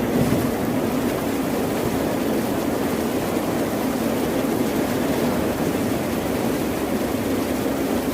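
Ocean surf: a steady rush of breaking waves with no pauses between them.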